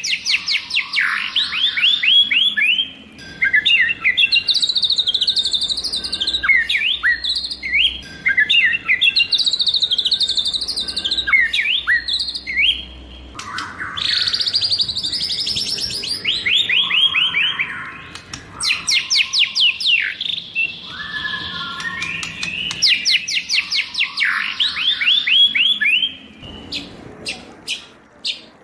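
White-rumped shama singing its varied wild-type song: phrases of rapid, repeated downward-sweeping whistled notes, broken by short pauses. Near the end it gives a quick series of sharp ticking notes.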